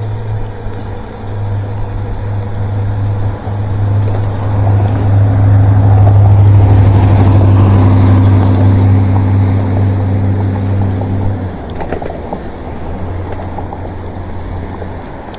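Electric bike riding on a wet road: tyres hissing over the wet pavement under a steady low hum that stops about eleven seconds in, followed by a couple of clicks.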